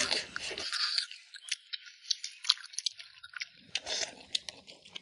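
A person chewing a mouthful close to the microphone, with many small crunchy clicks.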